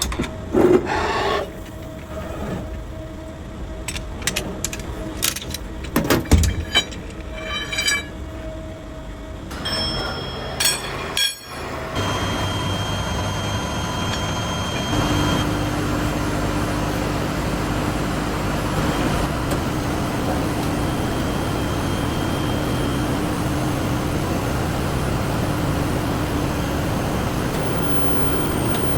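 Metalworking shop sounds: scattered sharp clanks and knocks of metal for about the first ten seconds, then a machine starts running with a steady, even noise and a faint constant hum.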